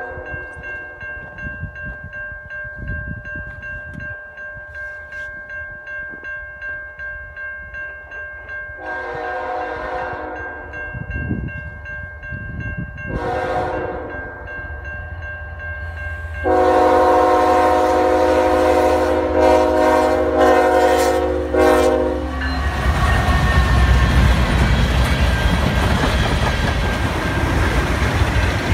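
Railway crossing bell ringing steadily as a CN freight train approaches. The train's multi-note air horn sounds a long blast, a short one, then a long blast of about six seconds. The train then passes close by with a loud, steady rumble of wheels on the rails.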